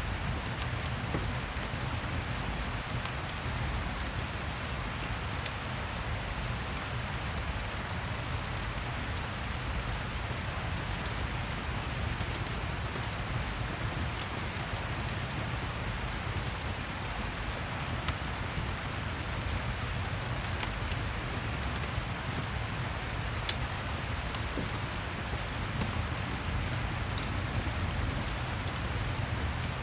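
Steady rain ambience, an even hiss over a low rumble, with scattered sharp crackling ticks as from a fireplace mixed in.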